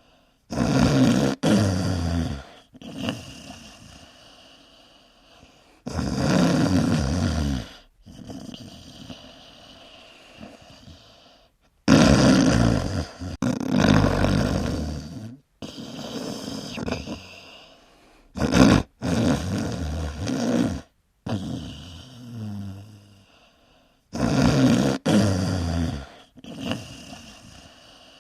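Several dogs snoring loudly in turn, like humans: about five long snores of roughly two seconds each, with quieter stretches between.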